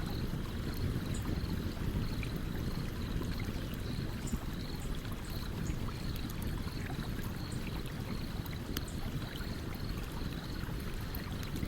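A stream running steadily, with a campfire's scattered crackles and small pops over it. A faint high chirp repeats about twice a second throughout.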